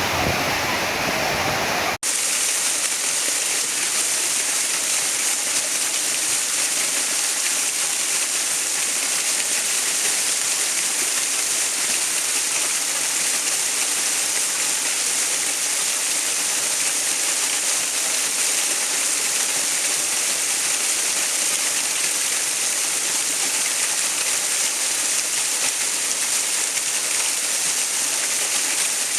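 Steady rushing water like a waterfall or fast stream, an even hiss weighted toward the high end. About two seconds in, a fuller, deeper water sound cuts off abruptly and the steady hiss takes over.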